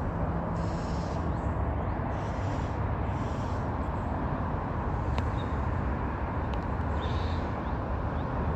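Steady low outdoor rumble with faint, short, high bird calls from small birds, most noticeable about five and seven seconds in.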